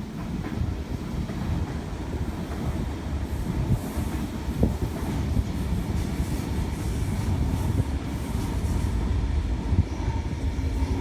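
Sydney Trains Tangara electric train running through the station: a steady rumble of wheels on rails that slowly grows louder, with a few sharp clicks.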